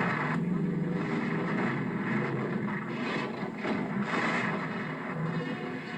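Stock car engines running hard as a pack of cars races through a corner. The noise swells and eases several times.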